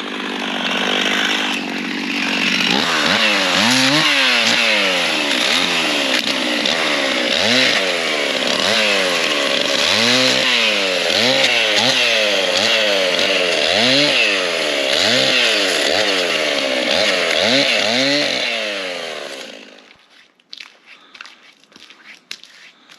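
Two-stroke chainsaw running hard, its engine pitch rising and falling over and over about once a second. It cuts off near the end, leaving faint crunching and clicks.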